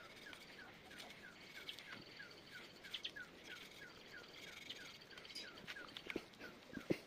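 Birds calling: one repeats a short falling chirp about three times a second, with other chirps higher up. A couple of faint knocks come near the end.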